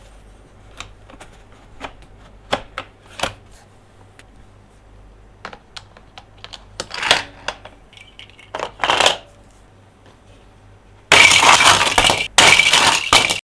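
Hands handling plastic toy monster trucks: light scattered taps and clicks, then two louder scrapes. Near the end comes about two seconds of loud continuous rustling or grinding with one short break, which cuts off suddenly.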